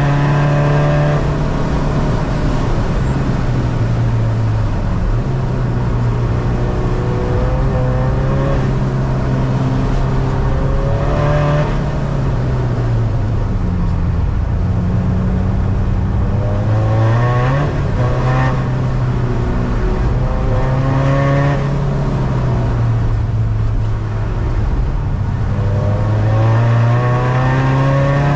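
Tuned 250 bhp SEAT Ibiza turbodiesel heard from inside the cabin, driven hard: the engine note climbs under acceleration and drops back several times with gear changes and braking, over a steady rush of tyre and road noise on a wet track.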